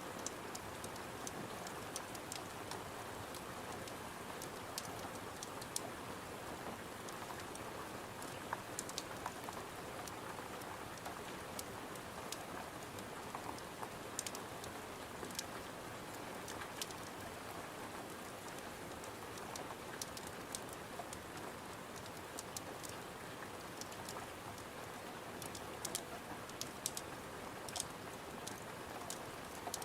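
Steady rain falling against a window, with irregular sharp crackles and pops from a wood fire in a fireplace scattered through it.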